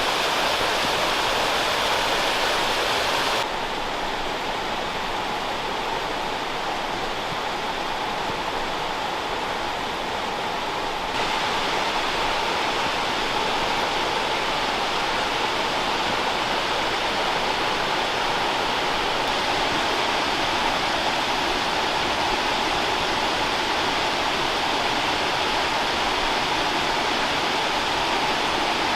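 Steady rush of falling water from a waterfall cascading over rock. It drops a little in level about three seconds in and comes back up about eleven seconds in.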